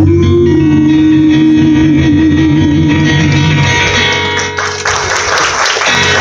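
Live gospel group music with guitar holding a sustained closing chord. About five seconds in, a loud hissing wash joins it.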